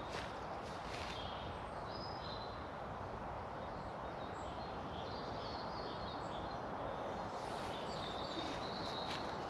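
Birds chirping in short calls several times over a steady outdoor background hiss, with a few footsteps near the start.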